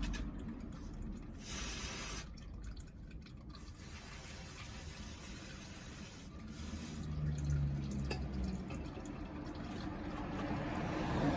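Used engine oil draining out of the sump into a drain pan, trickling and dripping.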